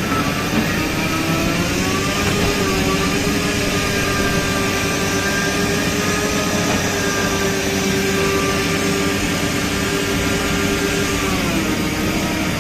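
Heavy machine engine running under load. It rises in pitch about two seconds in, holds steady, then winds down in pitch near the end.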